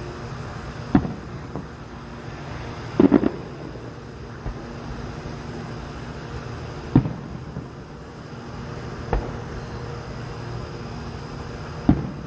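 Distant fireworks bursting, five sharp booms a few seconds apart with a quick cluster of cracks about three seconds in, over a steady chorus of crickets.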